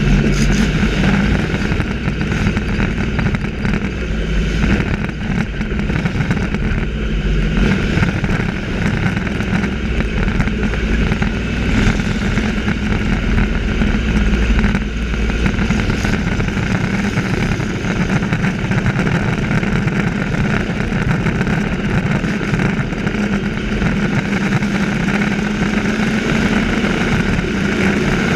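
Race trucks' engines running hard as they lap the track, a loud continuous engine noise whose pitch rises and falls as the trucks come past.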